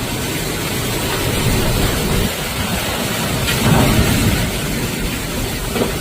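Hurricane wind and driving rain buffeting the microphone in a steady loud rush, with a stronger gust swelling about two-thirds of the way through.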